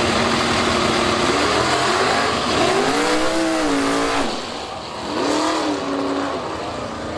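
Drag racing car's engine revved twice, the pitch swinging up and back down each time, over a steady background of engine noise.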